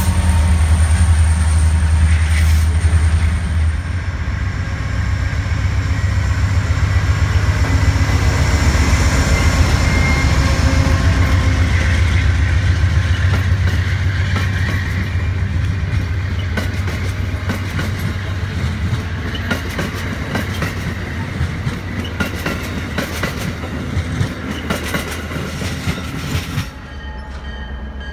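A CN diesel locomotive passing close with a deep engine drone, which gives way after about four seconds to the steady rumble and rapid clicking of rail cars' wheels over the rail joints as stainless-steel passenger cars roll by. The sound fades gradually and drops suddenly to a quieter level near the end.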